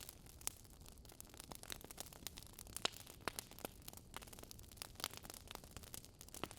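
Wood fire crackling: irregular sharp pops and snaps, several a second and uneven in strength, over a faint steady hiss.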